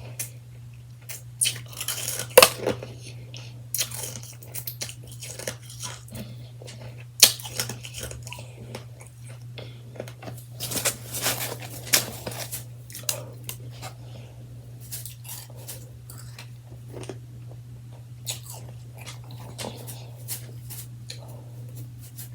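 A person biting and chewing freshly shaved ice close to the microphone: soft, irregular crunches that come in clusters, thickest about two seconds in and again around eleven seconds, over a steady low hum.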